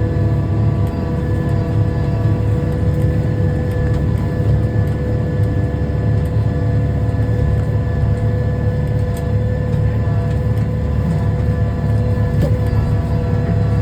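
Tractor engine running steadily under load while pulling a disc harrow, heard from inside the cab, with a low rumble and a steady whine over it.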